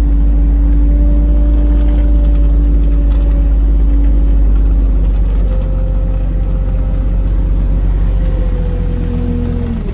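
A vehicle driving, with a steady low rumble of engine and road and an engine tone that slowly falls, then drops sharply near the end as it slows.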